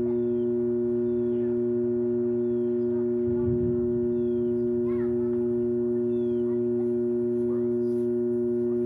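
A steady, pitched machine hum that holds one unchanging tone throughout, with faint short falling chirps from birds now and then over it.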